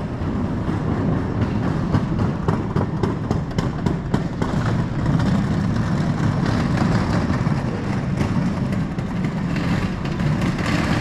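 Riding noise from a mountain bike: a steady rumble of tyres and wind on the microphone, with frequent rattling clicks from the bike.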